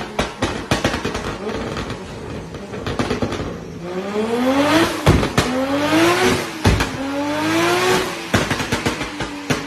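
Car engine and exhaust: a string of rapid, irregular crackling pops, then from about four seconds the engine revs up in three rising pulls. A loud bang comes at each break between pulls, twice.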